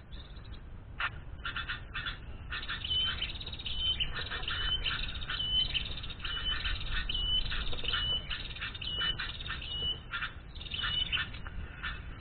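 Small birds calling: fast chattering notes, and from about three seconds in a short clear whistled note repeated roughly twice a second.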